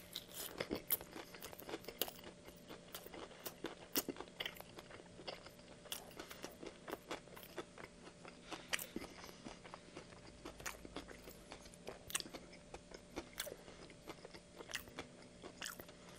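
Close-miked biting into and chewing a breaded fried-chicken sandwich (A&W Nashville hot chicken): a bite near the start, then many irregular small crunches of the crispy breading as it is chewed.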